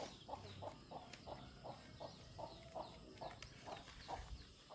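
Chicken clucking faintly in a steady run of short clucks, about four a second, with faint high bird chirps above.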